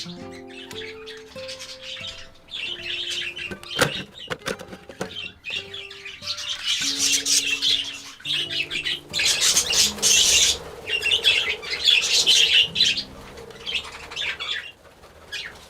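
Budgerigars chirping and chattering in repeated bursts, with a sharp knock about four seconds in, over soft background music.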